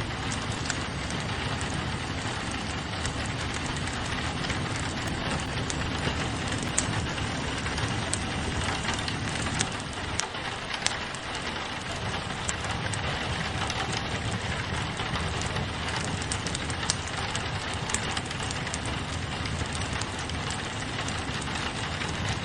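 Steady rain pattering on a window, mixed with a wood fire crackling, with scattered sharp pops and ticks throughout.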